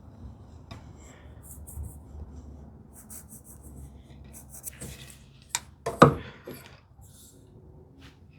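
Handling of wooden drawer parts on the workbench: light scratchy strokes like marking on wood, then a sharp wooden knock about six seconds in.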